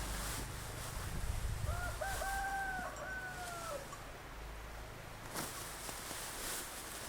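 A rooster crowing once, a call of about two seconds with a short rising start, a long held note and a falling end, over a low rumble and a few brief rustling swishes.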